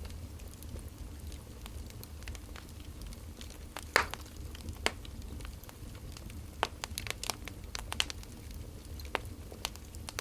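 Wood fire crackling: irregular sharp pops and snaps over a low steady rumble, the sharpest pop about four seconds in.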